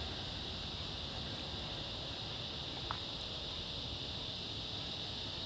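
Evening chorus of cicadas: a steady, unbroken high-pitched buzz, so loud they sing. One short click about three seconds in.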